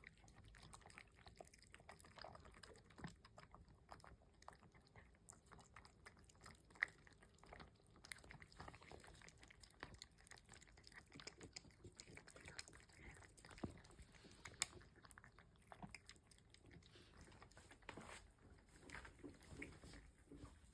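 Cats eating: faint, irregular chewing and crunching, with a few sharper clicks about seven seconds in and again around the middle.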